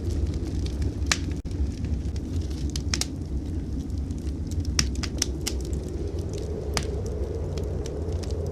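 Wood fire crackling in a fireplace, with sharp irregular pops, over a steady low rumble of blizzard wind.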